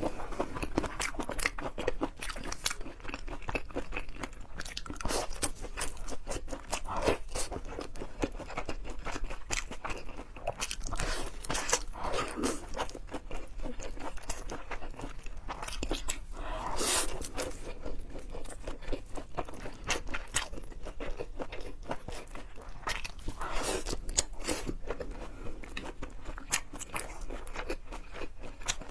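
Close-miked eating: biting and chewing food with a dense run of small crunching clicks and a few louder crunches.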